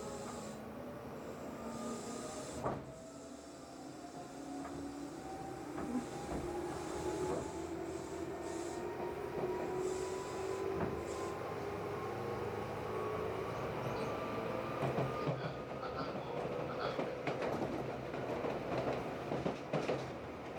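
Tobu 8000 series electric train running, with its motor whine climbing slowly in pitch as it gathers speed. Scattered clicks from the wheels and rail joints sound over the steady rolling noise.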